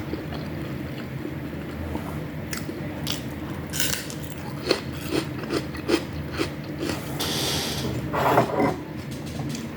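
Close-up chewing of crunchy food, with a run of sharp clicks at about two a second, then a brief clatter of utensils near the end.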